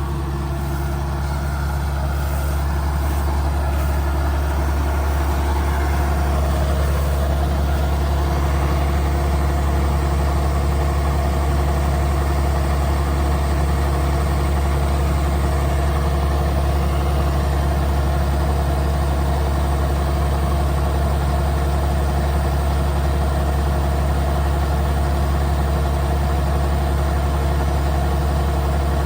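Kubota DC70G Plus combine harvester's diesel engine running steadily with a constant low hum, growing slightly louder over the first few seconds and then holding even.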